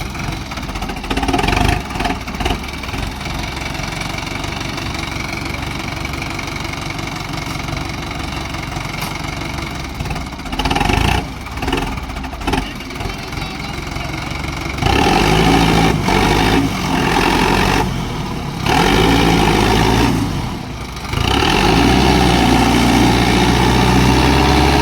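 Sonalika DI 750 tractor's diesel engine running under heavy load as it strains to climb out of soft soil. It runs steadily, then revs up louder about two-thirds of the way through, easing off briefly twice before revving again.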